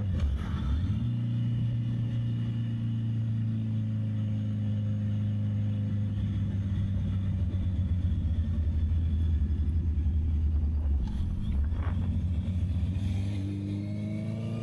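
Honda CB650R inline-four engine running at a steady cruise, with a short break in its note about half a second in and its pitch rising near the end as it revs up. Wind noise on the microphone.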